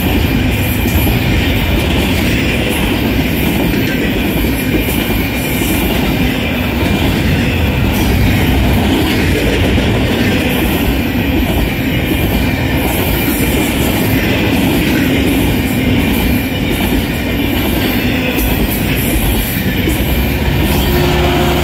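Double-stack intermodal freight train passing close by: a steady rumble of steel wheels rolling on the rails.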